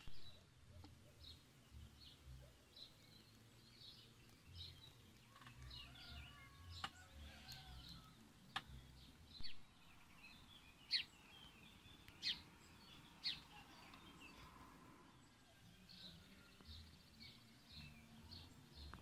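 Faint birds chirping and twittering over a low background rumble, with three louder, sharp falling calls in quick succession near the middle.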